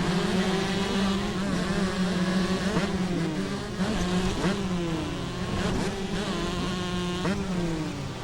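Several motocross bike engines buzzing and revving, their pitches repeatedly rising and falling as they pass, over a steady low drone.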